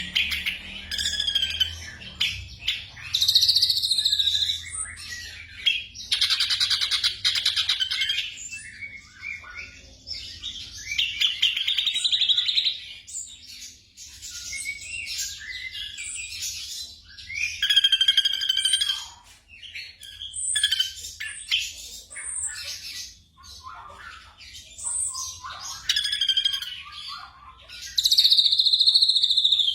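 Black drongo singing a varied run of whistled, buzzy and rapid chattering phrases separated by short pauses.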